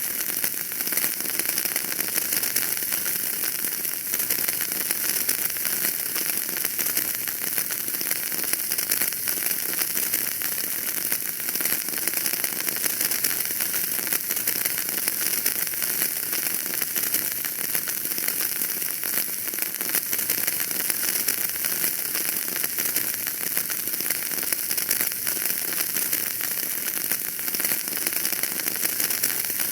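Wood fire burning in a fireplace, a steady dense crackle of many small pops over a hiss.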